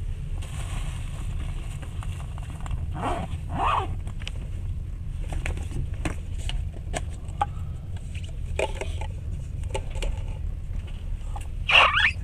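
Passenger train moving slowly, heard from inside the carriage: a steady low rumble with scattered clicks and knocks, and brief louder sounds about three seconds in and again near the end.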